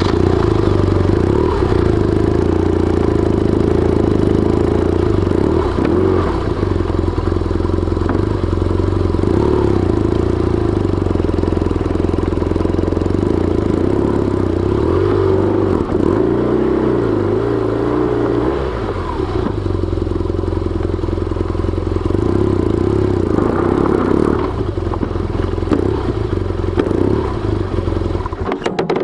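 BMW R1200GS boxer-twin motorcycle engine running at a steady idle, then cutting off abruptly near the end.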